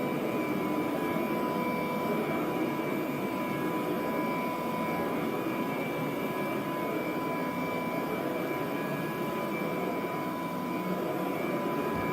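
1957 Kirby Model 517 vacuum cleaner running steadily while vacuuming: a rushing air noise with a steady motor whine over it.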